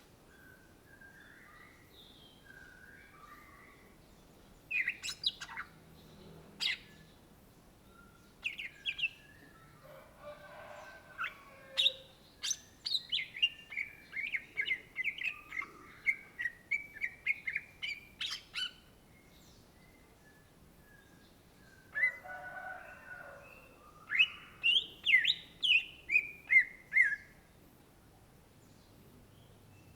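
Greater green leafbird (cucak ijo) singing: bursts of sharp, quickly repeated chirping notes with pauses between them, the longest run lasting several seconds.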